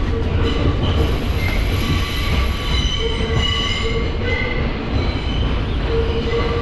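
R142 subway train heard from inside the car, running with a steady low rumble while its steel wheels squeal against the rail in several high tones that fade in and out.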